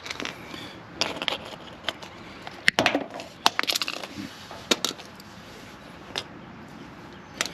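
Scattered sharp clicks and light knocks, several in quick runs, from tools and wiring being handled.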